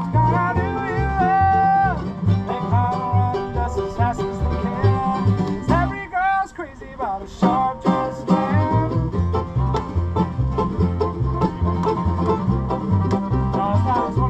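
Acoustic bluegrass band playing a tune: banjo picking over guitar, with a steady bass line underneath. The playing thins out briefly about six seconds in, then picks back up.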